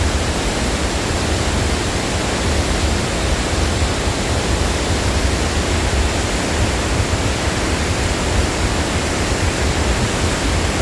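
Large river waterfall rushing: a steady, loud wash of falling water with a deep rumble underneath.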